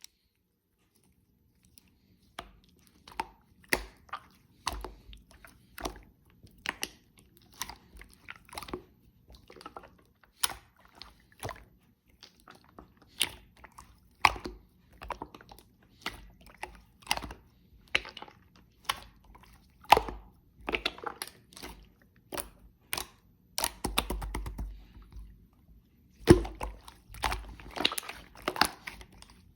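Spoon clicking and scraping in a container as strawberry jam is mixed into milk, in irregular knocks about one or two a second, with a quick run of rapid clinks about two-thirds of the way through.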